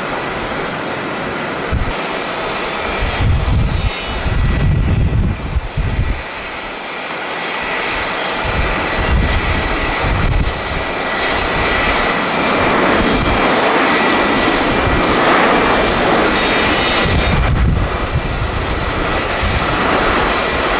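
Jet airliner engines running, the rushing noise growing louder from about seven seconds in, with a thin steady high whine. Gusts of wind buffet the microphone in irregular low thumps.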